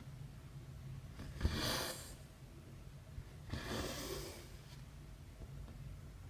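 Embroidery thread being drawn through cross-stitch fabric by hand: two swishing pulls about two seconds apart, each starting with a small tick, over a low steady hum.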